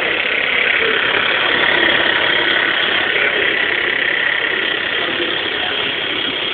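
Meccano model driven by a Mamod toy steam engine, running with a steady mechanical clatter of gears and linkages.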